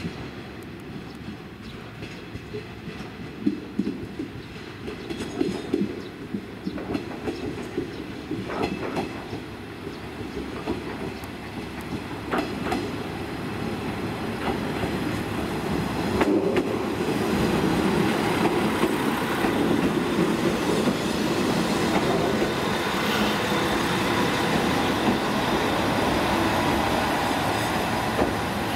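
Kumagawa Railway KT-500-series diesel railcar drawing slowly into a station. Its wheels click over rail joints and points now and then, and the diesel running noise grows louder about halfway through as the train comes close.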